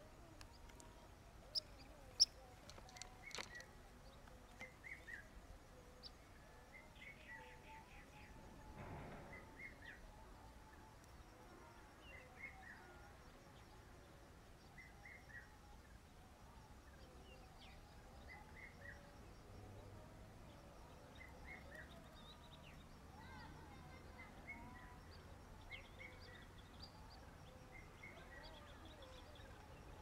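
Faint bird chirps: short groups of two or three notes repeated every second or two. A few sharp clicks in the first few seconds, and a brief rushing noise about nine seconds in.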